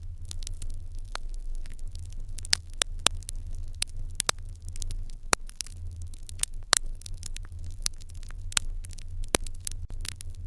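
Open fire in an irori hearth crackling, with irregular sharp pops and snaps several times a second over a steady low rumble.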